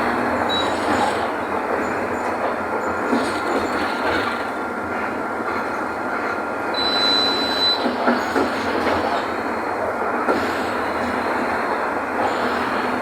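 Mercedes-Benz OF-1519 city bus under way: the diesel engine running under steady rumble and road noise, with body rattles and knocks. A brief high squeal comes about seven seconds in.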